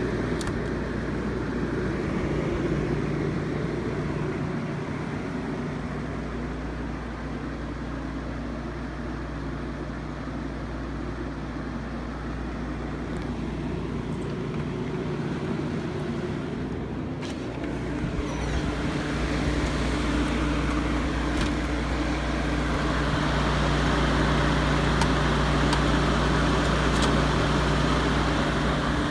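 1965 GE Thinette 6000 BTU window air conditioner running on low cool: steady compressor hum under the rush of its fan. About 18 seconds in the sound gets louder and fuller, and a few faint clicks come through.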